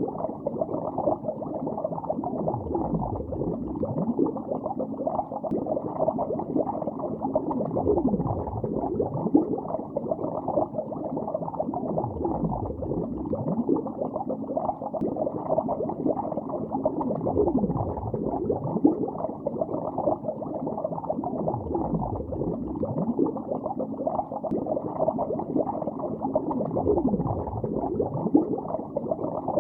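Continuous underwater bubbling: a steady stream of gurgling bubbles, with many short gliding pitches and no high end.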